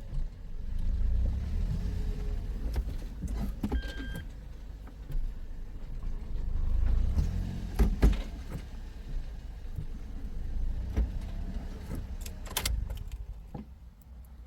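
Toyota car with an MMT semi-automatic gearbox being driven, heard from inside the cabin: a low engine and road rumble that swells and eases, with scattered clicks and knocks. The car is jerking as it drives, which the mechanic puts down to the older-version gearbox computer (TCM).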